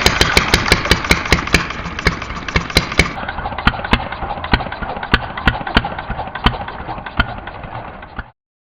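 Small four-stroke gasoline model engine running a mini water pump, its firing beats slowing from a quick patter to a slow, uneven beat and fading. The sound cuts off suddenly near the end.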